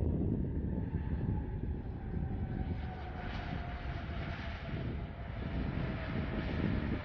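Jet engines of an Airbus A330 airliner on landing: a dense low rumble with a thin whine that slowly falls in pitch, and a rise in hiss about three seconds in.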